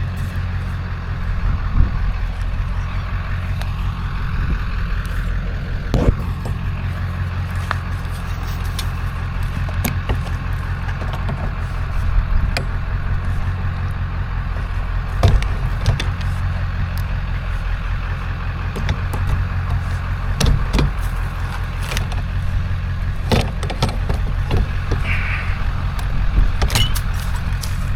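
Vehicle engine idling steadily, with scattered sharp knocks and clanks as metal parts are worked loose by hand.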